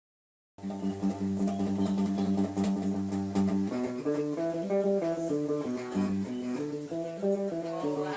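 Guitar playing, starting about half a second in: a held low note for about three seconds, then a picked melody of single notes.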